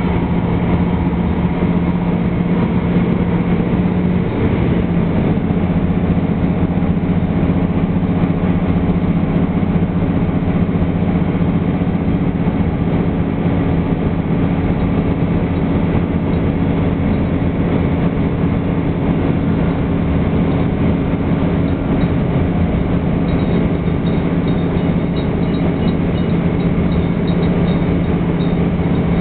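Diesel railcar running along the line, heard from inside the passenger cabin: a steady engine drone over the continuous rumble of wheels on the rails, the engine note shifting slightly about four seconds in.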